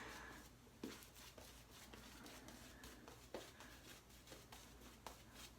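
Near silence: small-room tone with a few faint, soft ticks.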